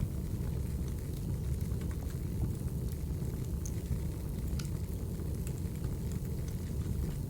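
Wood fire crackling: a steady low rumble of burning logs with scattered small sharp pops and snaps.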